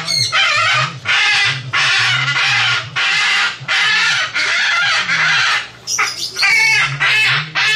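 Parrot screeching loudly over and over: harsh squawks about every 0.7 seconds, with a few shorter, more tuneful calls near the end.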